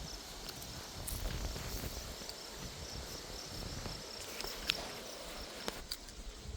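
Insects, crickets by their call, chirping in a steady pulsing high-pitched rhythm, over a low rumble and a few faint clicks.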